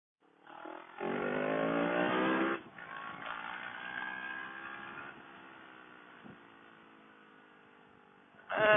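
CFMoto CL-X 700's parallel-twin engine revving up hard about a second in, then easing off, its pitch slowly sinking as the motorcycle winds down. A short loud burst comes near the end.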